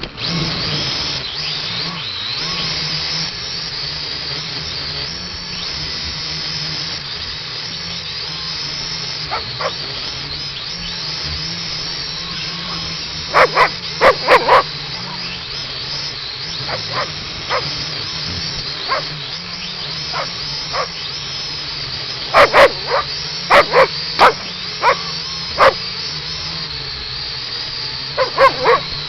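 A small quadcopter drone's propellers whine steadily, starting suddenly, while a dog barks in short clusters: a few barks about halfway in, then a longer run of barks near the end.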